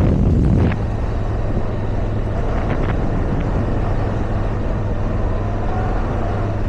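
Motorcycle engine running steadily under way on a rocky dirt road, louder for the first moment or so, with a couple of brief knocks a little before the middle.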